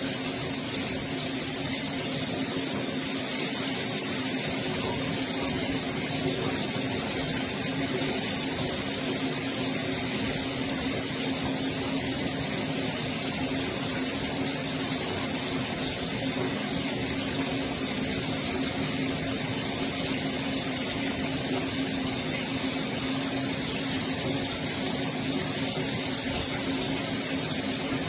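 Shower running: water spraying steadily from a shower head, an even hiss with a low steady tone underneath.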